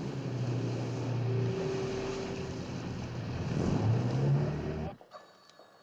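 An engine running under a steady rush of noise, its pitch stepping up a little near the end. It cuts off abruptly about five seconds in.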